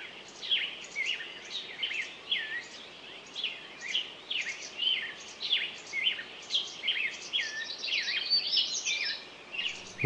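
Songbirds singing: an unbroken run of short, high chirps, each sliding downward, about three a second.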